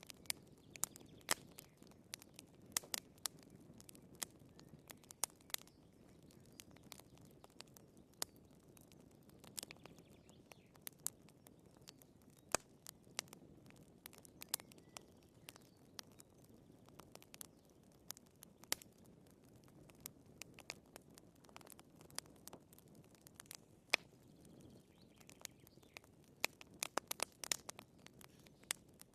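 Wood fire crackling in a fireplace: irregular sharp pops and snaps from burning firewood over a soft low hiss of flame, with a quick run of pops near the end.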